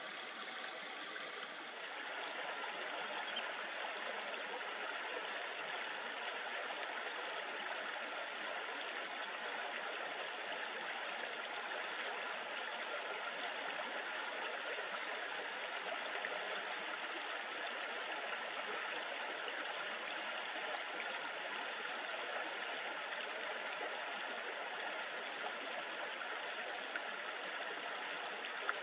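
Shallow river babbling: a steady, even rush of flowing water.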